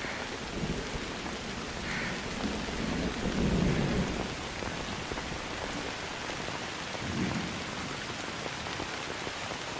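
Steady rain falling, with a low rumble swelling up about three seconds in and again briefly near seven seconds.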